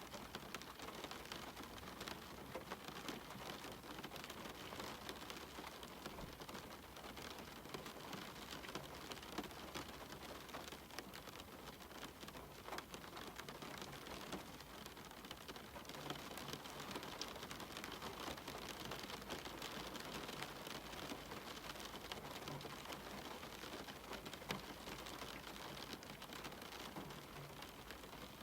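Steady rain falling on a cabin window, with individual drops ticking here and there through the even hiss.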